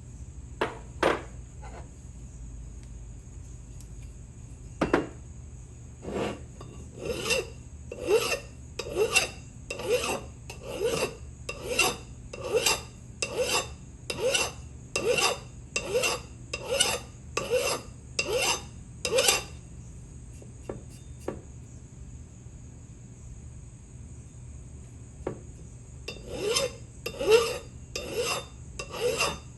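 Hand scraping or filing on the steel ratchet: rhythmic back-and-forth strokes of an abrasive against metal, about two a second. A few separate knocks come first, then a long run of strokes, a pause, and the strokes start again near the end.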